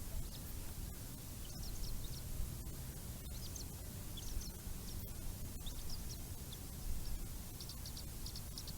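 Short, high bird chirps, scattered through and coming in a quick run near the end, over a steady low rumble.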